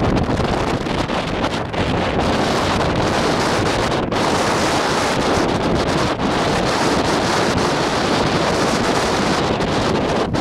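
Steady wind noise buffeting the microphone, a loud even rumble and hiss with no clear tones.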